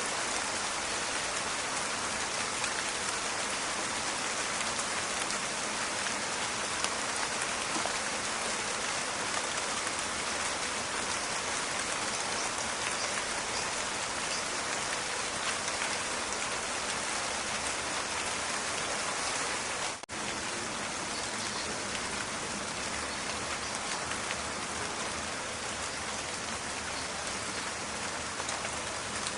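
Steady rain falling in a forest, a dense patter of drops with fine crackling ticks. The sound drops out for an instant about two-thirds of the way through, then carries on as before.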